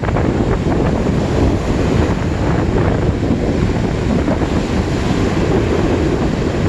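Lake Michigan waves washing steadily onto the shore, with wind buffeting the microphone.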